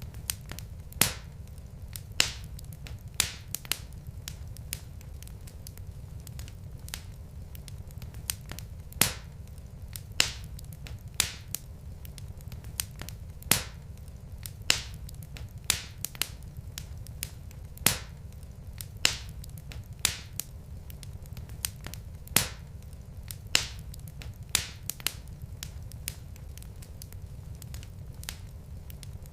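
Wood fire crackling in a fireplace: sharp pops come about once a second over a steady low rumble.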